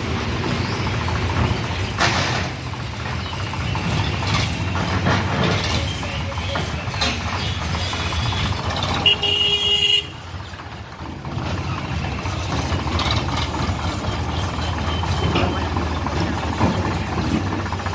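Heavy diesel engines running hard under load, a steady rumble, with a short horn toot about nine seconds in; the engine noise dips for a moment just after it and then picks back up.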